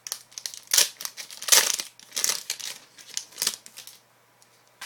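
Foil hockey card pack being torn open and crinkled by hand: a run of irregular crackling rips, loudest in the first two seconds, that stops about four seconds in.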